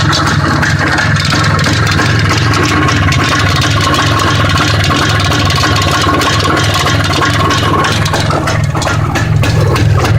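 IZh Planeta 5 motorcycle's single-cylinder two-stroke engine idling with a steady, rapid exhaust beat, picking up a little in loudness near the end.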